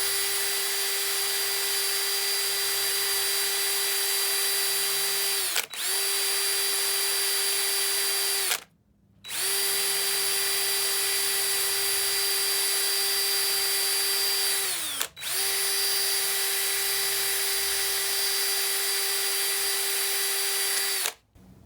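Power-tool-driven wire wheel spinning at a steady pitch as it scrubs corrosion off an engine valve. It runs in long stretches, with short dips about 6 and 15 seconds in, a brief full stop about 9 seconds in, and it cuts off near the end.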